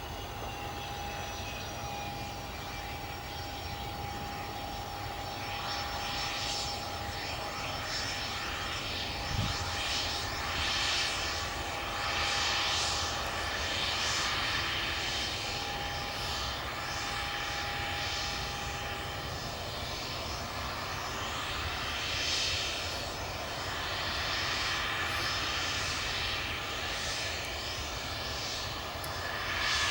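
Cessna 525 Citation CJ1's twin Williams FJ44 turbofan engines running. A whine falls in pitch over the first few seconds, then a wavering jet rush builds and grows gradually louder.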